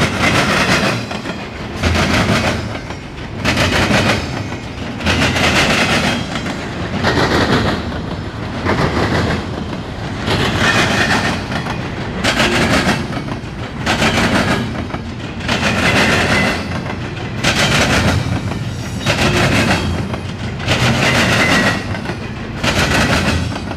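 Cars of a CSX intermodal freight train rolling past, their wheels clattering over the rail joints in an even rhythm of loud bursts about every second and a half to two seconds.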